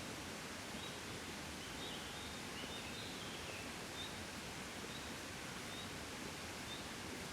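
Gentle wind blowing steadily, an even rushing hiss, with faint short high chirps about once a second.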